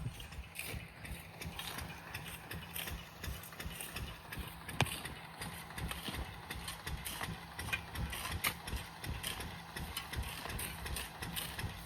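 Diesel irrigation pump engine running steadily with a fast, even chugging beat, with scattered sharp clicks and taps over it.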